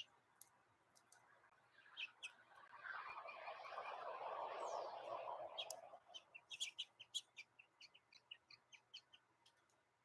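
A faint rushing noise swells and fades over a few seconds, then a small bird gives a quick series of short, sharp chip notes, about four a second, that die away.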